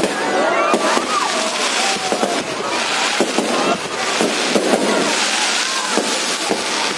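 Fireworks going off in a continuous, rapid crackle of sharp pops and bangs, with people's voices under it.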